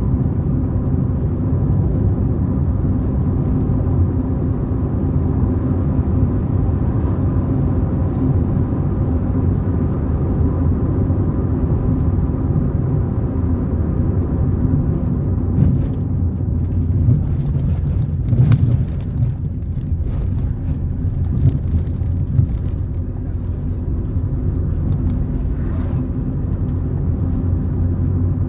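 A car driving along a road: steady engine hum and road rumble, with a few short knocks about two-thirds of the way through.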